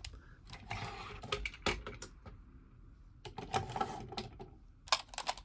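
Hard plastic toy robot parts being handled and moved, with scattered sharp clicks and scraping of plastic pieces against each other. The louder clicks come near two seconds in and shortly before the end.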